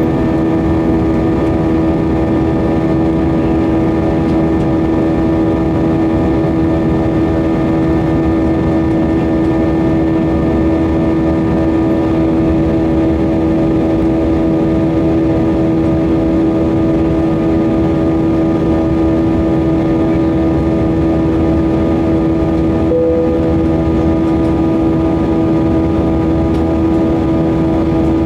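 Cabin noise of an Airbus A320 in flight with IAE V2500 turbofan engines: a steady rush of airflow under a constant engine hum made of several steady tones. A brief faint tone sounds once near the end.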